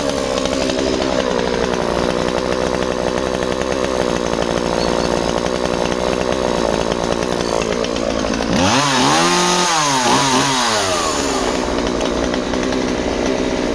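Two-stroke chainsaw with a .325 pitch semi-chisel chain cutting timber at full throttle. About two-thirds of the way through, the engine note rises and falls a few times as the load comes off and on, then the saw carries on at a steady pitch.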